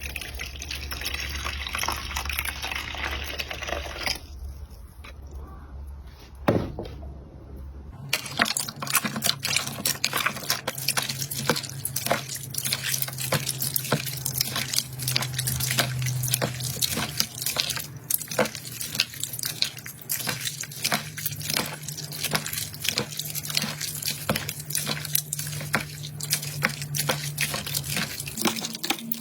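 Hands squishing and poking slime, making wet, sticky squelches. After a cut about eight seconds in, this becomes a dense run of rapid clicks and pops.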